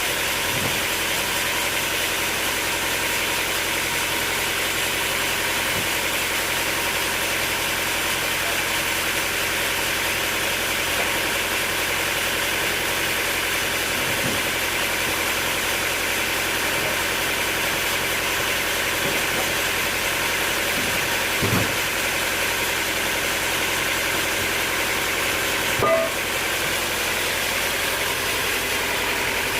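Sawmill machinery running steadily with an even engine-like hum, and a couple of brief knocks late on.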